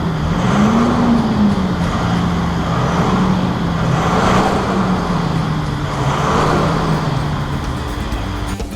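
Exhaust note of a 2013 Toyota VDJ200 LandCruiser's 4.5L twin-turbo diesel V8 through a 3-inch stainless turbo-back exhaust with a single rear muffler. The engine is revved briefly about a second in, then runs fairly steady with a few small rises in revs.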